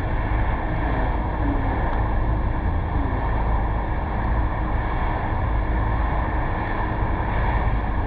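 Steady wind and road noise from a moving car, picked up by a GoPro mounted on the car's roof: a constant low rumble of wind on the microphone with a hiss of tyres on the road.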